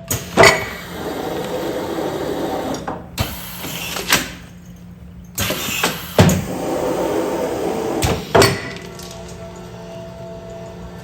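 Automatic food-container sealing machine working through its cycle: sharp clacks as it presses and releases, with noisy stretches of running in between. The pattern repeats about every five to six seconds.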